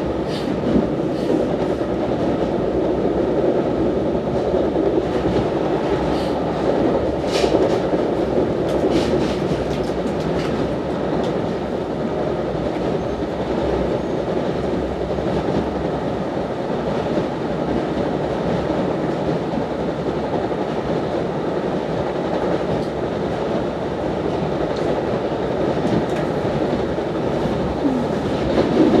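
Steady rumble of an NJ Transit MultiLevel commuter coach running at speed, heard from inside the car: wheels on rail with a run of sharp clicks about a quarter of the way in and a short louder swell near the end.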